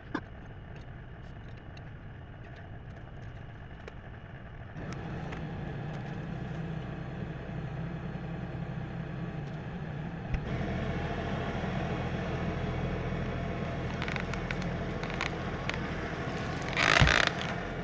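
Tractor engine running under load to drag logs on a cable, getting louder in two steps as it works harder, with a short loud scrape near the end.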